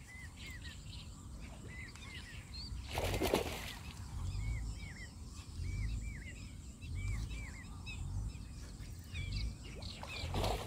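A bird chirping over and over in short arched notes, over a low background rumble. About three seconds in, a brief noisy burst.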